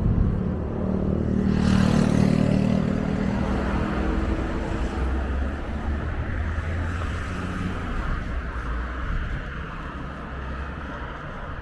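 A motor vehicle passing close by, its engine note and tyre noise swelling to a peak about two seconds in and fading, followed by steady low street-traffic rumble.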